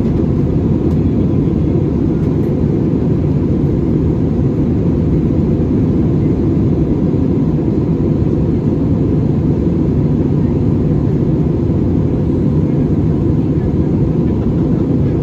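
Airbus A320-200 in flight, heard from inside the passenger cabin: an even, low rush of airflow and engine drone that stays steady throughout.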